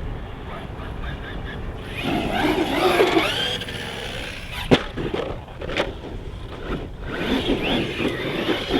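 Brushless electric motor of a 1/8-scale RC stunt monster truck on a 4S battery, whining as it revs up and down. A sharp knock comes about halfway through, as the truck hits the ground, followed by a smaller one a second later.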